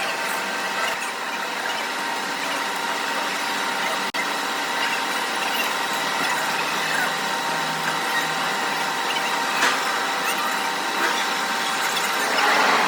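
Workshop machinery running steadily, a constant mechanical drone with a high squeal over it. There is a brief dropout about four seconds in and a louder swell near the end.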